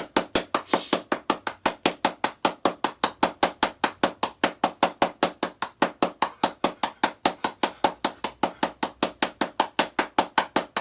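Rapid, very even knocking or tapping, about five sharp knocks a second, going on without a break.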